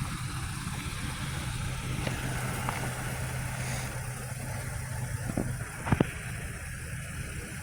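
A vehicle engine runs with a steady low hum over a wash of noise, and the hum stops about five seconds in. Two sharp clicks come just before six seconds.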